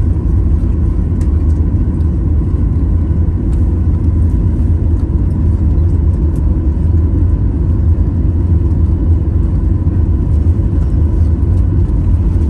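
Steady low rumble inside a jet airliner's cabin from its engines and air systems, with a faint steady whine above it.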